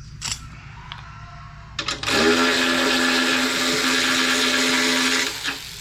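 A handheld power tool's motor starts about two seconds in and runs at a steady speed for about three seconds, then stops.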